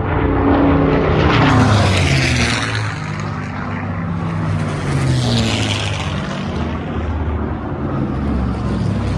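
Aircraft engines flying past at an airshow, the engine pitch falling as each goes by: one pass in the first few seconds and another about five seconds in.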